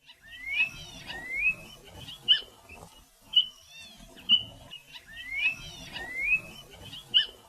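A quail calling: pairs of rising whistled notes, each followed by sharp short call notes, with the sequence repeating about halfway through.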